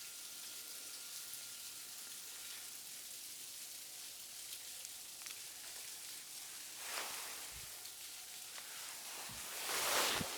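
Sleet and freezing rain mix hitting the ground: a steady fine hiss of small ticking pellets. It swells briefly louder about seven seconds in and again near the end.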